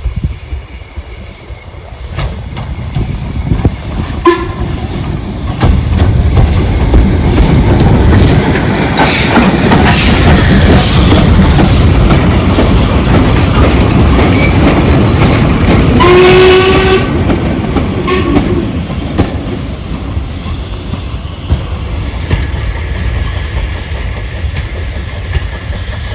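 Steam locomotive and its train passing close by, a loud rumble with wheels clattering over the rail joints. It sounds its whistle briefly about four seconds in and again, longer, about sixteen seconds in, before the train fades away.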